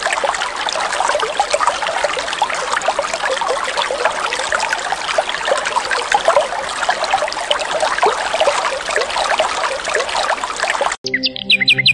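Water trickling and bubbling steadily, as in a small stream. It cuts off suddenly near the end, where bird chirps and music come in.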